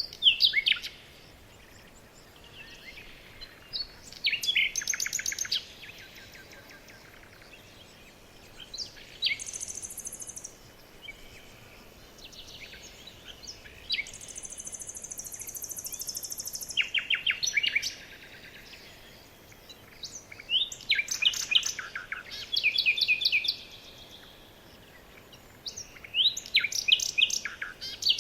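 Songbirds singing in short bursts of fast, trilled phrases every few seconds, with a high, thin buzzing note held twice, briefly about nine seconds in and longer from about fourteen to eighteen seconds.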